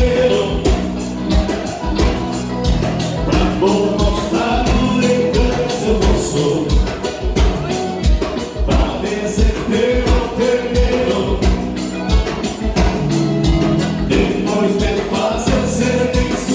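Gaúcho dance music played live by a band: accordion-led with a steady, evenly pulsing beat, with a voice singing part of the time.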